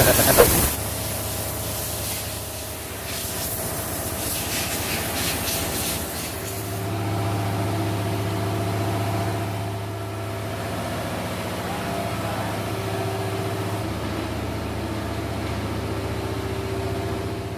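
Engine-room machinery aboard a tugboat running with a steady hum, the level swelling slightly partway through.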